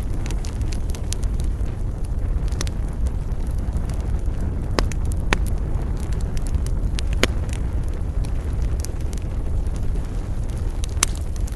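Wood fire burning in a fireplace: a steady low rumble with irregular crackles and sharp pops, the loudest about five and seven seconds in and near the end.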